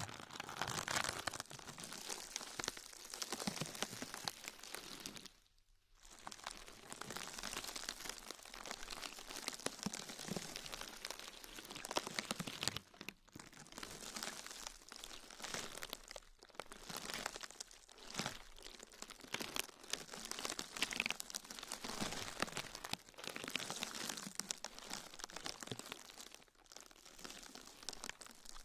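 Dense crinkling and crumpling, as of a material being handled and squeezed, in long stretches broken by brief pauses, the longest about five seconds in.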